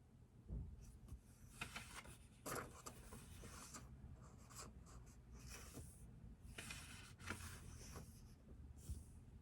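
Faint handwriting: a pen scratching on paper in short, irregular strokes, over a low steady room hum.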